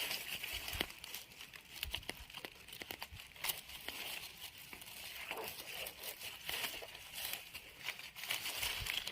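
Hands rustling and crinkling through dry leaf litter and forest-floor debris while picking wild mushrooms, with many small irregular snaps and crackles.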